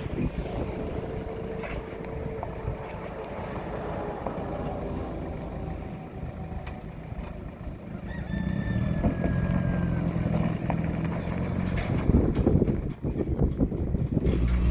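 A vehicle engine running, coming in strongly about eight seconds in and growing louder, over outdoor background noise.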